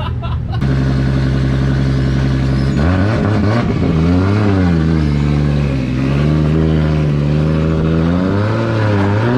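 Drift car engine held at steady revs, then revving up and down repeatedly from about three seconds in as it drifts on the wet track.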